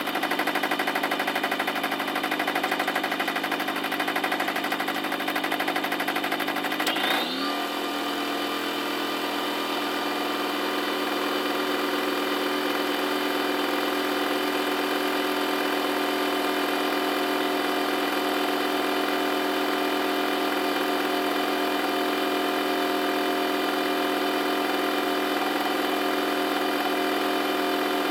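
Washing machine motor running with a steady whine. About seven seconds in, its pitch climbs quickly and settles at a new speed.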